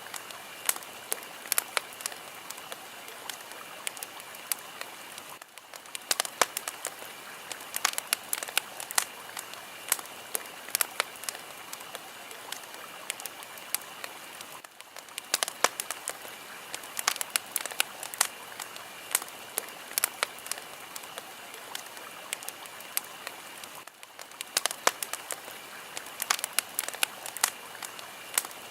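Fire crackling: a steady hiss full of frequent sharp pops and snaps. It dips briefly three times, about nine seconds apart.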